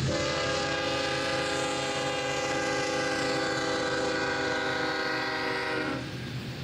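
Freight locomotive's air horn sounding one long steady blast of about six seconds over the rumble of the passing train, then cutting off.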